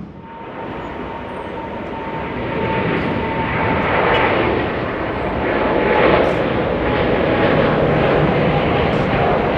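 Jet airliner's engines passing close by. The roar builds over the first few seconds and then holds, with a steady whine running through it.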